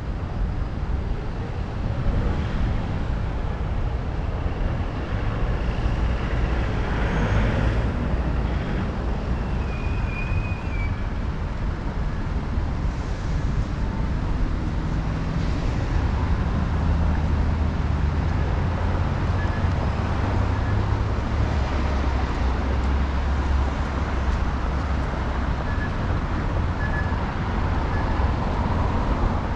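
City road traffic heard from a moving bicycle: a steady rumble of passing cars and their tyres, with a deeper, steadier engine hum through the middle stretch.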